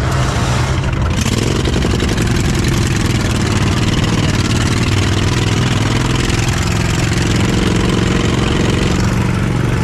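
Off-road mud mower's small engine running under load while towing another mower. It picks up about a second in and runs steadily, easing slightly near the end.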